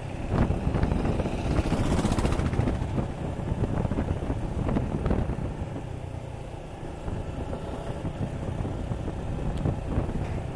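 Suzuki Gixxer 155's single-cylinder engine running while riding, buried under heavy wind buffeting on the action-camera mic. The noise is a little louder in the first few seconds.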